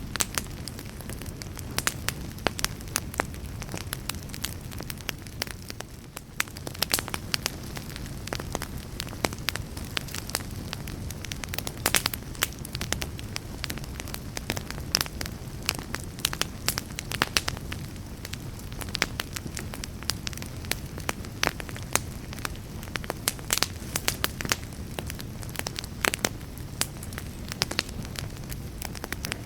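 Wood fire burning in a fireplace: constant irregular crackles and pops over a steady low rumble of the flames.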